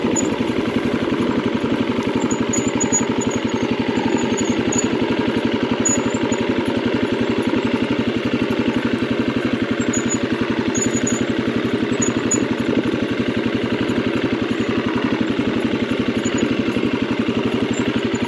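Husqvarna FE 350's single-cylinder four-stroke dirt-bike engine running steadily under way, with no big rises or falls in revs.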